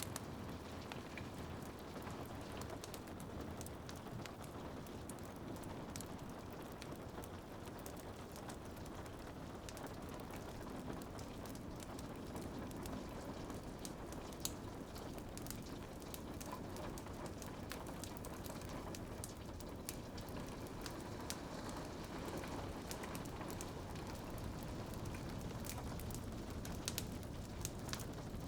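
Steady rain pattering on a window, mixed with a wood fire crackling in a fireplace: frequent small sharp pops and ticks over an even hiss.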